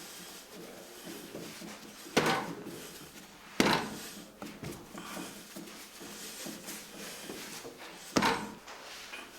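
Three sharp knocks, about 2, 3.5 and 8 seconds in, over light clattering: bakery equipment being handled and set down.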